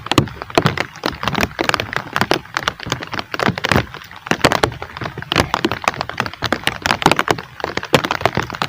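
Heavy rain, drops striking close to the microphone in a dense, irregular patter of sharp cracks and taps.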